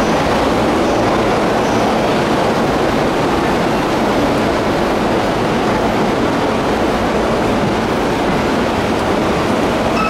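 Steady, loud railway noise at a station platform beside a standing commuter train, an even noise with no distinct tones or beats.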